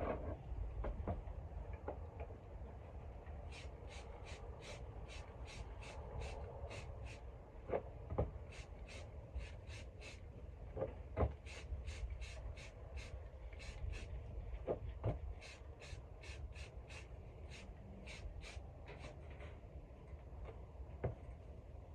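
Rhythmic short scraping strokes, about two to three a second, with a few scattered knocks.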